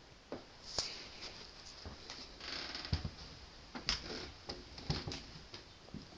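Irregular clicks, knocks and rattles inside an old passenger train carriage, with a short hiss about two and a half seconds in.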